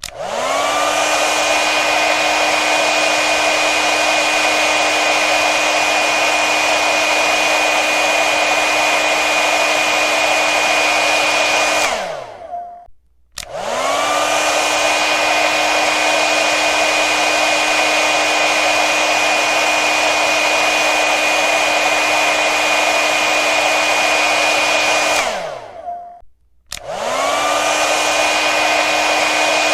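Electric hair dryer blowing: a steady rush of air with a motor whine. It is switched off about 12 seconds in, its whine sliding down as the motor winds down, and after a second of quiet it starts again with a rising whine. The same stop and restart comes again near the end.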